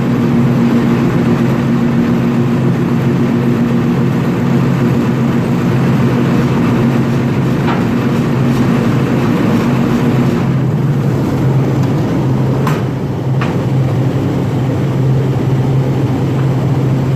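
Lifeboat's diesel engine running steadily under way, its note shifting about ten seconds in, with a couple of sharp clicks shortly after.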